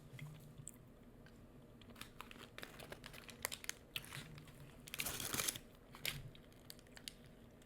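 Close-miked chewing with crunchy bites: scattered short crackles, with a denser burst of crunching about five seconds in.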